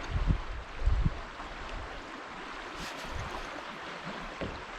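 Steady rush of flowing creek water around a kayak, with two low thumps of wind on the microphone in the first second.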